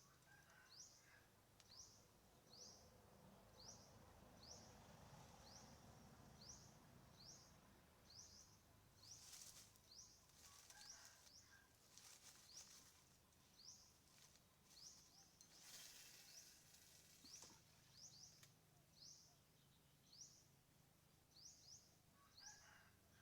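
Faint outdoor ambience with a small bird repeating one short, high, rising chirp over and over, about three times every two seconds. A few brief rustles come partway through.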